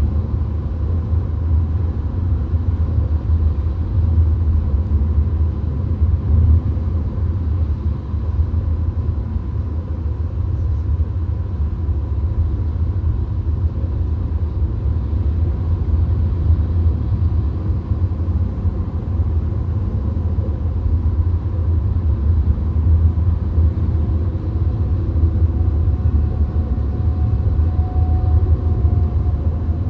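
Steady low rumble of a VW Golf cruising at highway speed, heard inside the cabin: tyre, road and engine noise blended into an even drone.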